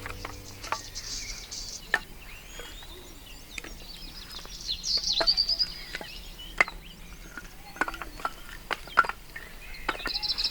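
Birds chirping in short high bursts, with scattered sharp knocks and clicks of handling, the loudest a few single knocks.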